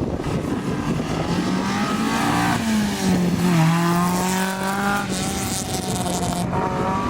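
Rally car engine at speed on a special stage. Its pitch climbs, drops about three seconds in, then holds steady.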